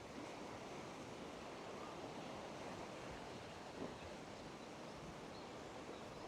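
Sea surf washing against a rocky coast, a steady rushing noise.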